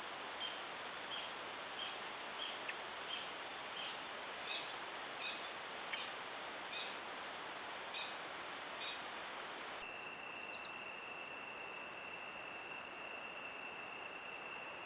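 Steady trail-camera hiss with a bird giving short high calls over and over, about one every 0.7 seconds, each often a pair of notes at two pitches. About two-thirds of the way in the calls stop abruptly and a steady high-pitched insect trill takes over.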